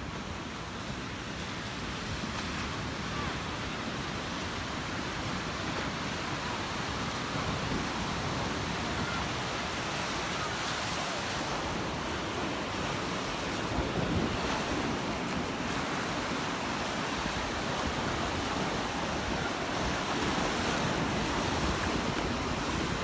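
Gulf surf washing onto the beach, a steady rush of breaking waves that slowly builds, with wind buffeting the microphone.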